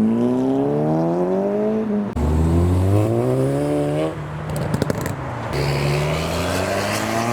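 A modified car's engine accelerating hard as it pulls away: revs climb, drop sharply at an upshift about two seconds in, climb again, and shift again about four seconds in. A few sharp exhaust pops come just before the revs climb once more near the end.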